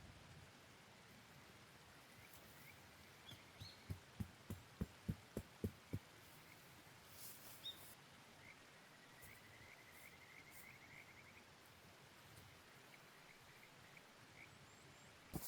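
Quiet outdoor ambience: a faint steady rush of a mountain stream with faint high chirping trills, broken about four seconds in by a quick run of about nine soft, low thuds over two seconds.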